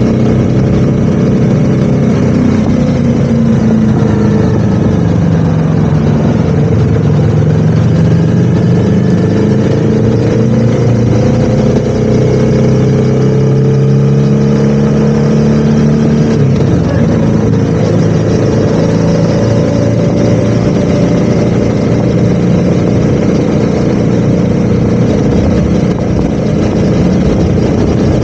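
Motorcycle engine running while riding. Its pitch drops a few seconds in, holds steady for a while, then shifts again past the middle.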